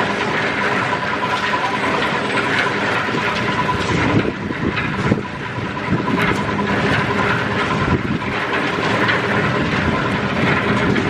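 A machine running steadily with a constant hum and continuous rattling.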